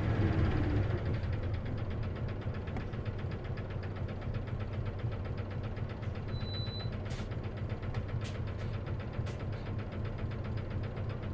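Diesel engine of an Isuzu KC-LV380N route bus winding down, then running at low revs with a steady, rapid rattling clatter. This is the abnormal noise the bus is known for, which the owner thinks may be a symptom that manual-gearbox buses can develop. A short electronic beep sounds about six and a half seconds in, followed by a few sharp clicks.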